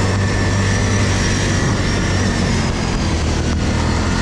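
ATV engine running steadily under way, a low even hum with a thin high whine over it that dips slightly about three seconds in.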